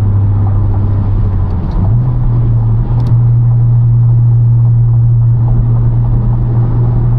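Inside the cabin of a 2022 Honda Civic Si on the move: the 1.5-litre turbocharged four-cylinder engine's steady drone over road noise. About two seconds in the engine note rises a step and holds there.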